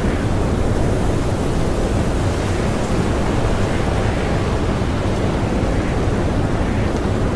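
Blizzard wind blowing hard and steadily, a deep, unbroken rush.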